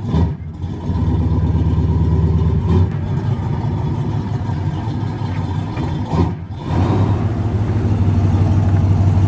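An engine running steadily, with short breaks about three and six seconds in.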